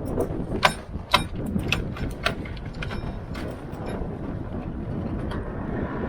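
Gusty wind buffeting the microphone aboard a small sailboat under sail. Several sharp clicks and knocks come in the first two and a half seconds.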